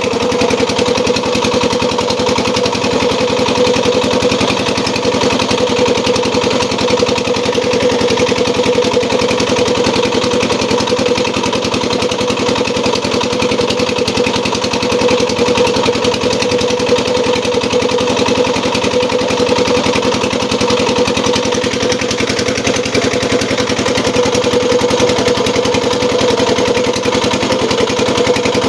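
Engine powering a homemade gambir-leaf grinding and pressing machine, running steadily at a constant speed with a steady hum.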